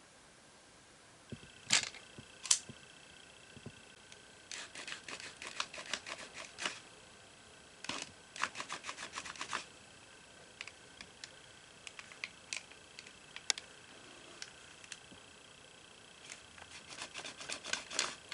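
Small metal clicks and snaps of a Leatherman Hybrid folding pruner multitool being handled: two sharp snaps, then several bursts of rapid clicking with single clicks between.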